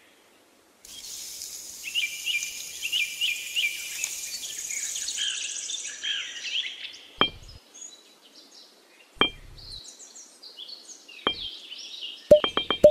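Birds chirping over a steady hiss, starting about a second in. In the second half come three single sharp clicks a couple of seconds apart, then a quick run of clinking clicks near the end.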